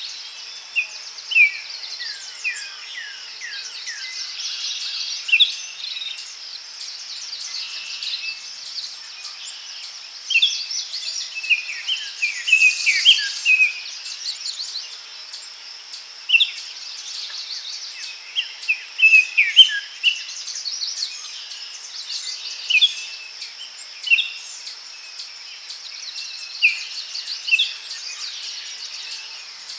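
Daytime forest ambience: songbirds chirping and calling in short, separate phrases over a steady high insect hiss, with a regular, fast insect ticking above it.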